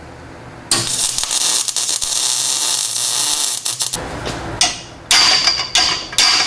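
An arc welder crackling steadily for about three seconds as a weld is laid on a rusty exhaust pipe. It is followed by several sharp hammer blows on the hot metal, each ringing.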